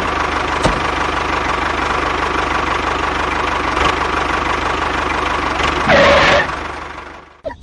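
A DIY mini tractor's small engine running steadily with a fast knocking beat. It gets louder briefly about six seconds in, then fades away near the end.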